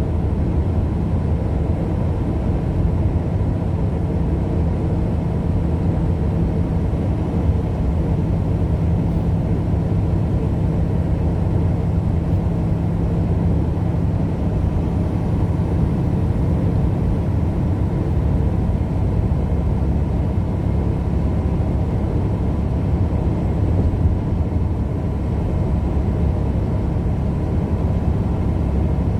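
Steady road and engine noise of a moving vehicle: a constant low rumble with no distinct events.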